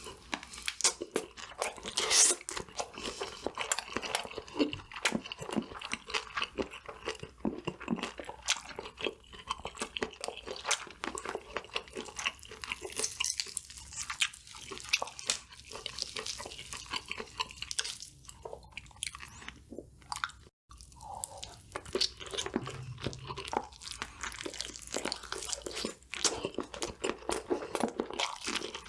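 Close-miked chewing of crunchy KFC fried food: dense, irregular crackling crunches, with a loud bite about two seconds in.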